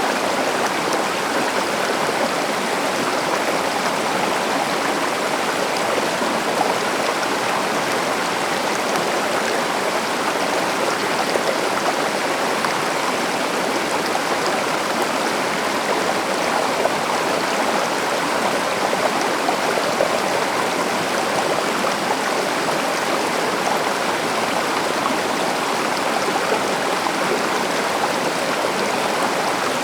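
A river flowing, a steady rushing of water that does not change.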